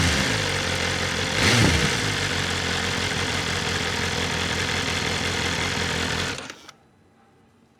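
BMW S1000RR inline-four engine, with its stock Akrapovic exhaust, falls back from a rev to idle, gets one brief throttle blip about a second and a half in, then idles steadily. Near the end it cuts off suddenly.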